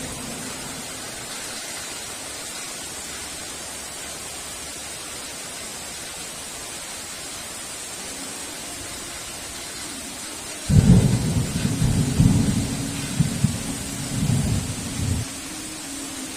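Steady hiss of heavy rain; about eleven seconds in, a sudden low rumble of thunder breaks in and rolls on for about four seconds in several surges before fading back to the rain.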